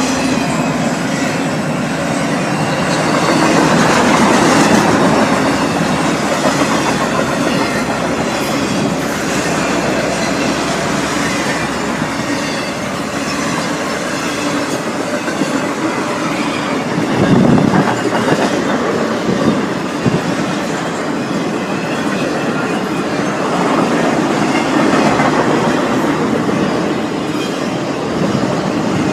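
Norfolk Southern freight train rolling past, its cars' wheels on the rails making a loud, continuous din that swells and eases a little as the cars go by.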